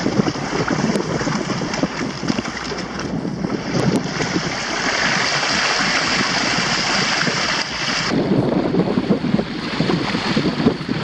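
Wind buffeting the microphone and water rushing and splashing along the hull of a Hobie Adventure Island sailing kayak under sail in strong wind and chop. A louder rushing hiss builds from about four seconds in and cuts off suddenly about eight seconds in.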